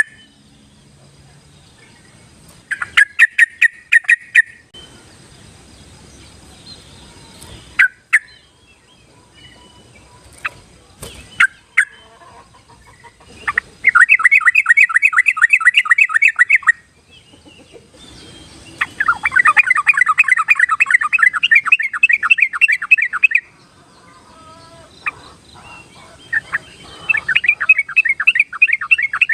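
Yellow-vented bulbul song: four long bursts of rapid, bubbly chattering notes, each a few seconds long, with a few short single calls between them.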